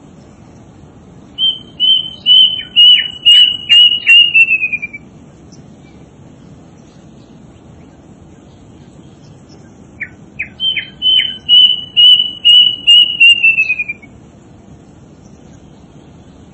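A bird known in Java as the buntel mayit singing: two runs of about ten clear whistled notes a few seconds apart, each run quickening slightly and falling in pitch at its end.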